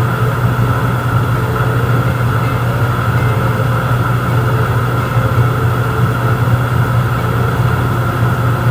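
A motor running steadily: a continuous low hum with a fainter, higher tone above it and no change in level.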